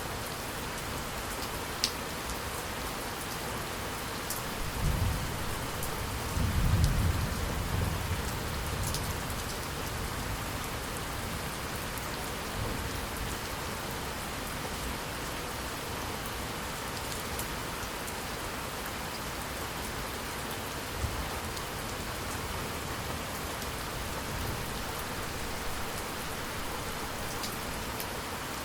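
Steady rain falling, with a low rumble of thunder swelling about five seconds in and fading by eight, and a few sharp drip ticks.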